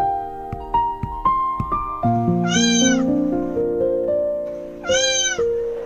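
Two cat meows, each about half a second long and rising then falling in pitch, over background music of sustained stepped notes.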